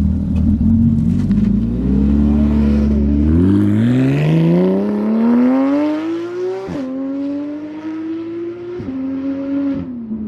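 A sports car's engine accelerating hard as it pulls away through the gears. Its pitch climbs steadily for several seconds and drops sharply at an upshift about two-thirds through, then it runs on in the next gear.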